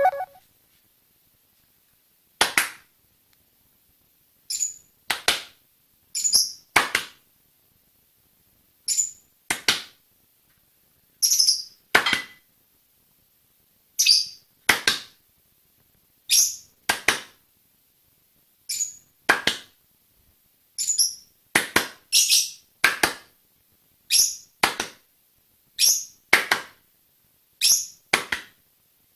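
Pet parrot's short, high chirps, each followed by a sharp click-like sound, coming in pairs about every two seconds, as if calling back and forth.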